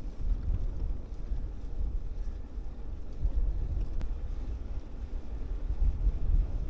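Wind buffeting the microphone, a gusty low rumble that rises and falls throughout.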